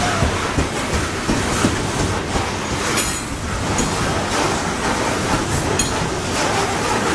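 Canadian Pacific coal train's cars rolling past, wheels clacking steadily over the rail joints, with a brief high wheel squeal about three seconds in.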